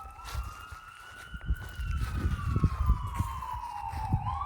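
Emergency vehicle siren wailing: a slow rise, a long fall, then rising again near the end, with low irregular thuds underneath.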